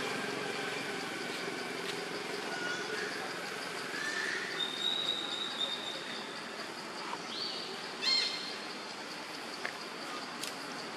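Outdoor ambience: a steady background hiss with a constant high hum, and a few short bird chirps and whistles, the loudest a brief squeaky call about eight seconds in.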